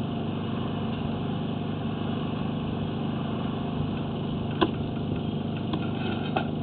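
Steady low engine hum, like an engine idling, with a few short clicks near the end.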